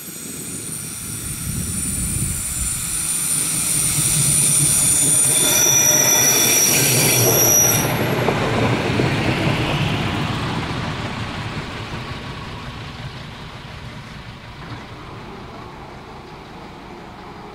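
A diesel railcar passing over a level crossing at close range: its rumble builds to a peak about six seconds in and then fades as it moves away. A high-pitched wheel squeal rides over the rumble and cuts off sharply about eight seconds in.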